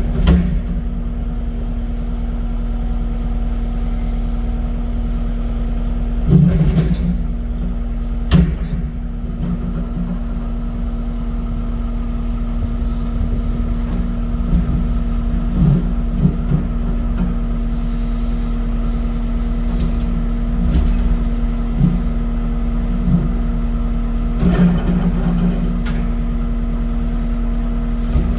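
Diesel engine of a Cat 323 excavator running steadily under load, with a few sharp clunks and knocks as the bucket works at the sawn concrete.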